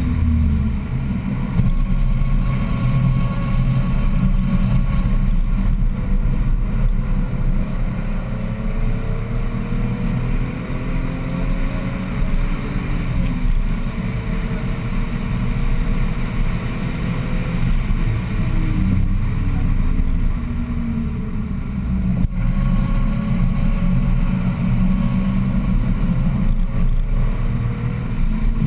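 BMW 1M's twin-turbo 3.0-litre inline-six driven hard at speed, heard from inside the cabin over wind and tyre noise. The engine pitch climbs and falls back repeatedly as it goes up and down the gears.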